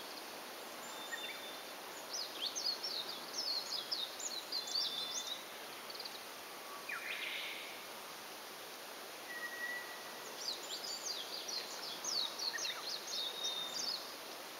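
A songbird singing long runs of quick, high twittering notes, twice. Between them, about nine seconds in, a single thin steady whistle, the eerie note of a White's thrush.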